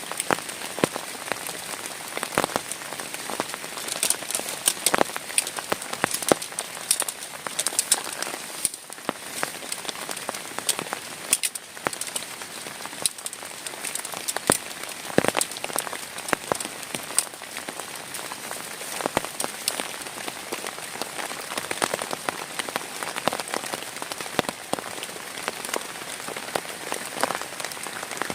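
Heavy rain falling steadily, with many individual drops tapping sharply on a nearby surface.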